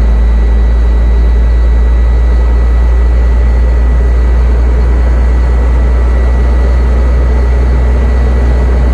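Semi-truck diesel engine running steadily with a deep low drone and a faint steady whine above it, while the engine-driven air compressor builds brake air pressure toward cut-out.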